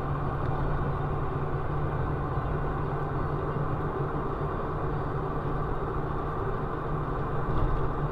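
Steady vehicle engine and road noise with a low droning hum, picked up by a dashcam.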